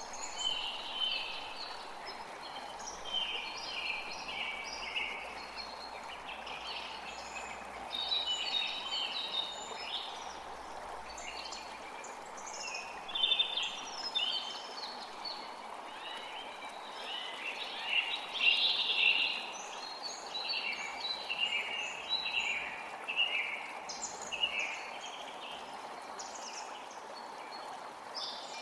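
Several birds singing, many short chirping phrases overlapping one after another, over the steady rush of a forest creek.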